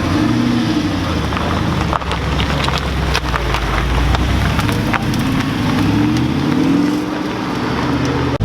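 Car engine revving, its pitch rising and falling twice, with scattered sharp crackles.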